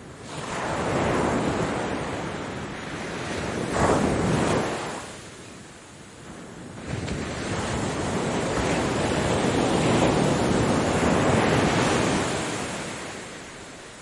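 Ocean surf: waves breaking and washing up the shore in rising and falling swells. A sharper crash comes about four seconds in, and a long wash builds through the second half before it fades.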